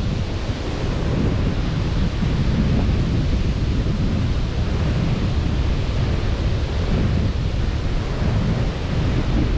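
Sea surf washing on a beach in a steady rush, with wind rumbling on the microphone.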